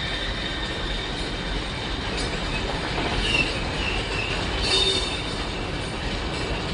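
A train running past: a steady rolling noise with thin high-pitched squeals from the wheels on the rails that come and go.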